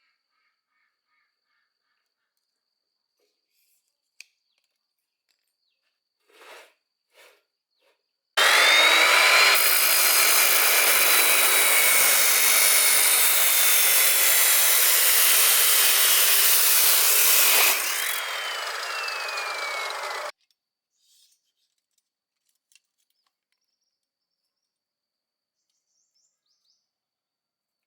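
A power tool running under load for about ten seconds, its whine sinking slowly, then easing off with the whine falling further before it cuts off suddenly. A few faint knocks come before it.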